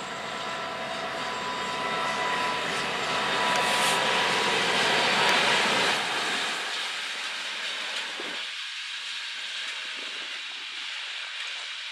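Diesel-hauled passenger train approaching and passing, its engine drone and wheel noise growing louder up to about six seconds in. The sound then changes abruptly to a lighter, steady rolling hiss of the coaches going by.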